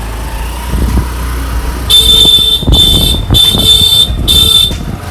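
A vehicle horn honked four times in quick succession, short blasts with abrupt starts and stops, over the low rumble of road traffic and wind.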